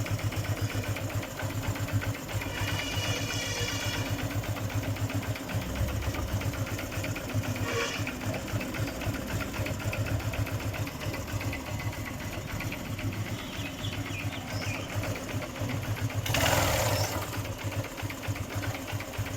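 Honda CB Shine's single-cylinder engine idling with a fast, even clattering tick, an abnormal engine noise shown as a problem. A brief louder burst of noise comes about three-quarters of the way through.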